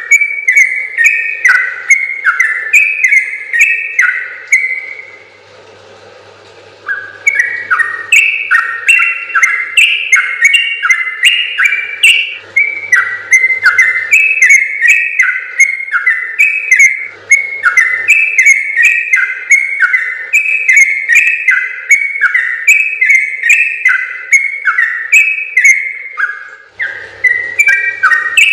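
Yellow-vented bulbul (trucukan) singing a long, fast run of short whistled notes that step up and down in pitch. The song breaks off for about two seconds near the start, then goes on without a break.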